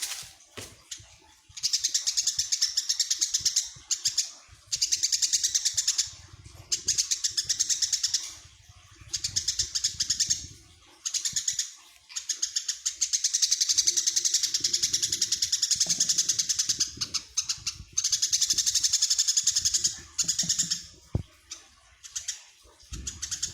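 Eurasian tree sparrow chirping in fast runs of short, high chirps, each run lasting one to several seconds with brief pauses between.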